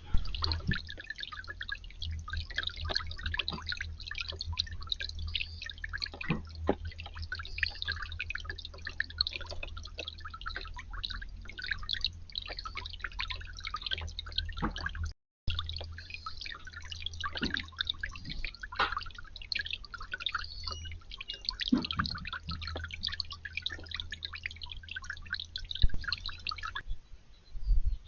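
Water dripping and splashing steadily into a garden fountain or bird bath, a dense patter of irregular drips over a low steady hum. The hum stops near the end.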